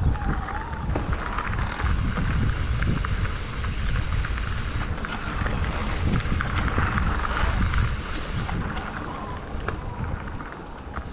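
Wind buffeting the microphone of a GoPro on a moving e-bike, a steady rumble with tyre and road hiss and scattered small clicks and rattles from the ride.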